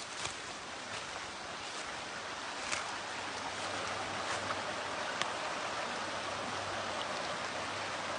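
Steady rushing of running water, growing slightly louder about three seconds in, with a few light ticks over it.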